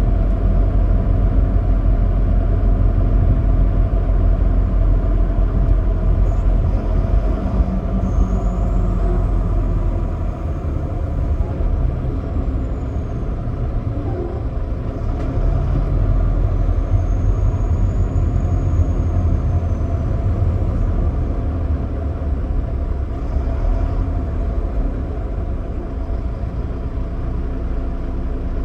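Big rig semi truck on the road: steady low engine and road rumble. The rumble eases a little about ten seconds in.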